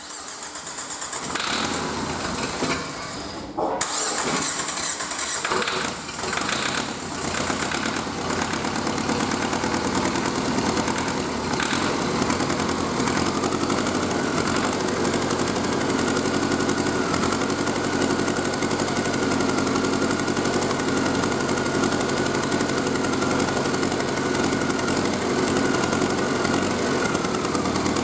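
Renault K9K 732 1.5 dCi four-cylinder turbodiesel engine being started, uneven for the first few seconds, then running steadily at idle. A steady high whine joins about halfway through.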